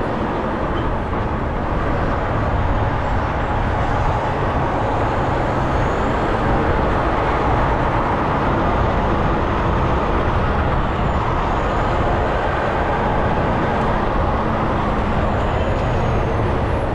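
Steady engine and road noise from a truck on the move, a dense, even rumble with a faint low hum.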